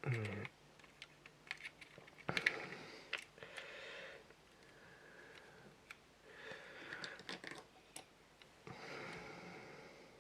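Small clicks and taps from handling plastic model kit parts on a workbench. A short vocal sound comes right at the start, and three soft breaths or sniffs fall between the clicks.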